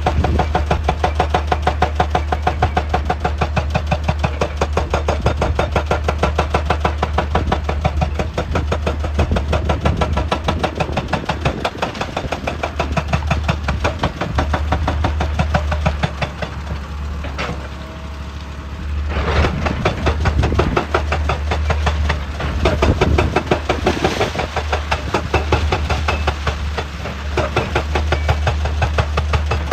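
Heavy excavator diesel engine running, with a rapid, steady train of knocks over it; the sound dips briefly a little past the middle, then picks up again.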